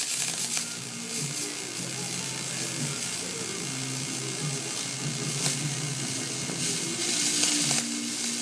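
Aluminum MIG welding arc from a spool gun on a Millermatic 210 welder, a continuous crackling hiss while a bead is being laid.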